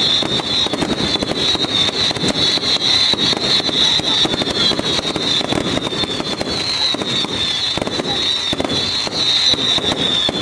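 Whistle jack fireworks whistling together in one steady high shriek that wavers slightly in pitch, over rapid crackling and popping from other fireworks.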